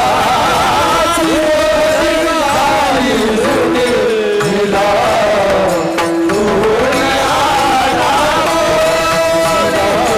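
Marathi kirtan music: a voice singing a long, wavering melodic line without clear words, over steady accompaniment that holds a lower tone.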